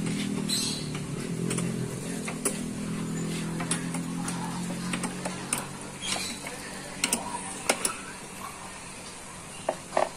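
Hand tools working loose the two 10 mm bolts of a car's air filter housing: scattered metallic clicks and ratcheting ticks, over a low steady hum that fades out about six seconds in.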